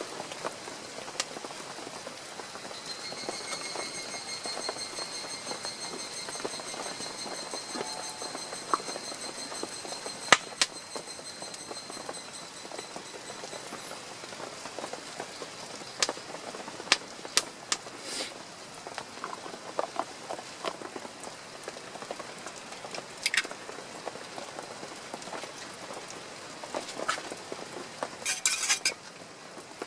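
Steady rain pattering, with scattered sharp clicks and a quick cluster of them near the end. A thin, high, steady tone sounds over it for about ten seconds, starting a few seconds in.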